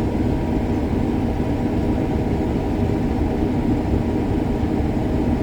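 Heavy harvest machinery running steadily: a constant low engine drone with no change in pace.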